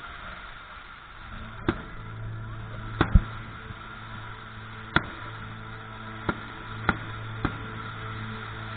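Fireworks going off: seven sharp bangs a second or two apart, with a quick double bang about three seconds in, over a steady low hum.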